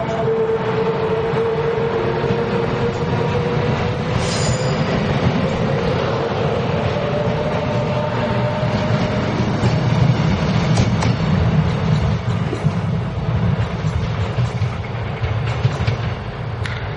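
Taiwan Railway EMU500 electric commuter train passing close by: a steady rumble of wheels on rail with a faint motor whine drifting in pitch, and a few sharp clicks from the wheels.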